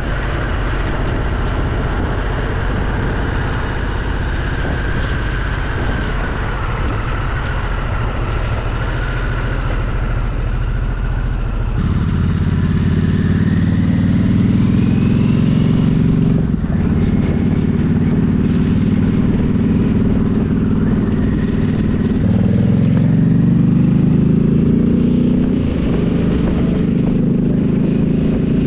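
Motorcycle engine heard from the bike while riding. About halfway through it gets louder and climbs in pitch as the bike accelerates, dips briefly as at a gear change, then climbs again.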